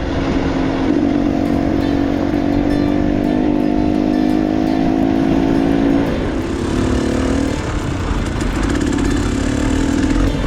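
Two-stroke enduro dirt bike engine running under load at fairly steady revs, then the revs drop and vary about six seconds in, with rumble and clatter from the bike over rough trail.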